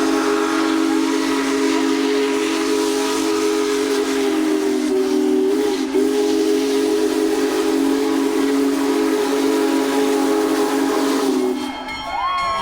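Union Pacific Big Boy 4014's steam whistle blowing one long, loud blast of several low notes at once, with steam hiss, cutting off about eleven and a half seconds in.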